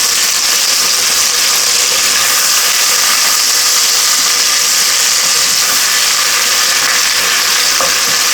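Chicken and melted butter sizzling in hot rosemary-infused oil in a frying pan, a loud, steady frying hiss as the chicken sears.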